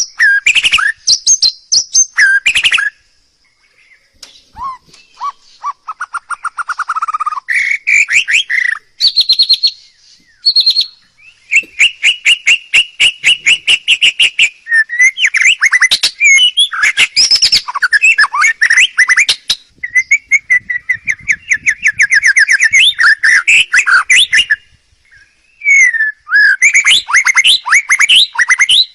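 A songbird singing loudly in a varied song of fast trills of repeated notes and whistled phrases, broken by a couple of short pauses.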